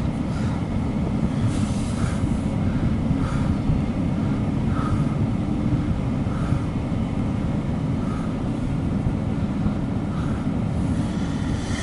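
Steady low rumble, with faint short high chirps repeating about every second and a half.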